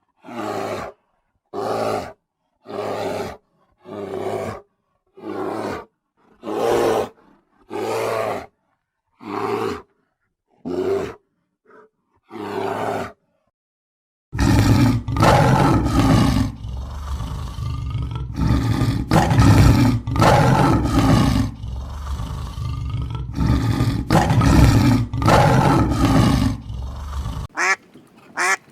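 Farm animal calls: a run of short separate calls at about one a second, then a dense, louder stretch of overlapping calls over a low rumble that cuts off near the end.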